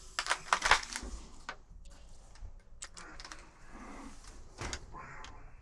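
Irregular clicks and knocks of hard parts being handled, with a brief clatter in the first second and another knock shortly before the end.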